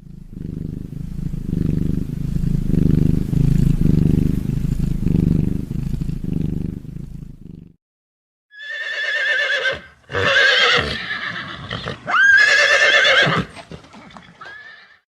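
A low, pulsing sound for about eight seconds, then a horse whinnying: three high, shaky neighs in quick succession.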